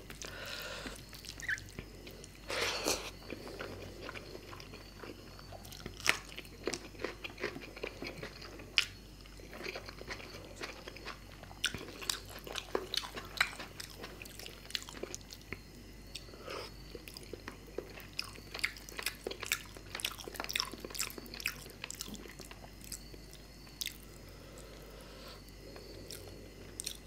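Close-miked chewing of fish curry and rice, with many small wet mouth clicks and smacks throughout.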